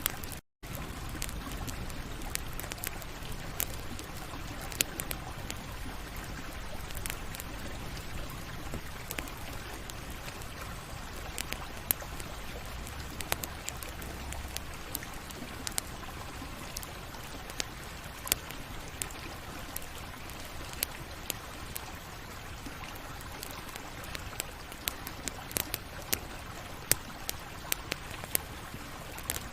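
Campfire crackling: a steady low hiss studded with frequent sharp, irregular pops and snaps of burning wood. The sound cuts out for an instant about half a second in.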